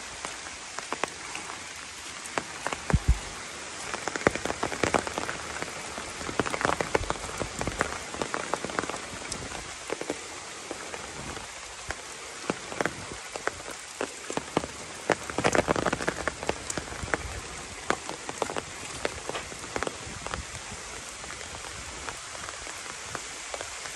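Steady rain falling through woodland, a constant hiss with many sharp, irregular ticks of single drops hitting close by.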